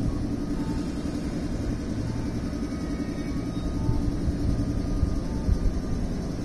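A 113 series electric multiple unit pulling away from the station, with a steady low rumble of its motors and wheels as it starts to move.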